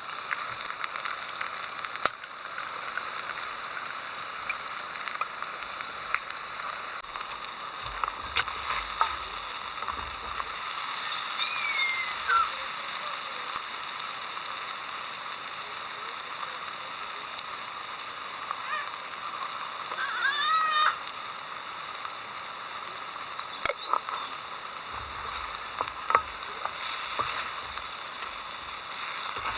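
Steady, high-pitched chorus of summer insects. A few short chirping bird calls come through about a third and about two thirds of the way in, with scattered light clicks.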